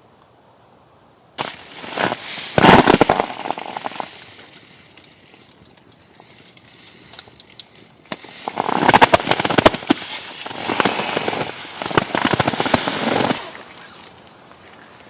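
Dense, rapid crackling and snapping in two bursts: one starting suddenly about a second and a half in and lasting a couple of seconds, and a longer one from about eight seconds in for some five seconds, cutting off sharply.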